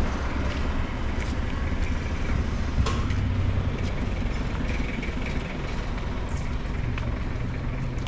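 A motor vehicle's engine idling nearby, a steady low rumble, with a single sharp click about three seconds in.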